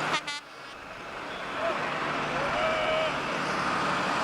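Loud, dense noise of a tractor-pulling engine run. A brief high tone sounds right at the start, then the sound cuts down sharply and builds back up to full loudness over about a second and a half.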